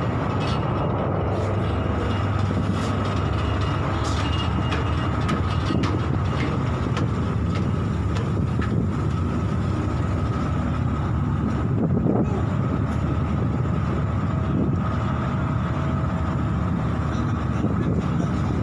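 Steady loud rumble on board a vessel in rough sea, with scattered short knocks and clatters.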